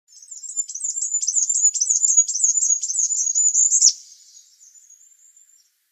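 A small songbird singing a rapid run of high, thin notes, about five or six a second, for about four seconds, then trailing off into a faint, thin trill.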